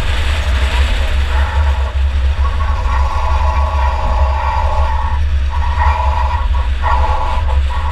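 The engine of a 2004 Chevy Impala enduro derby car running hard, heard from inside the car over a heavy steady rumble of road and chassis noise. Its higher engine note dips out briefly several times, about five seconds in and again near the end.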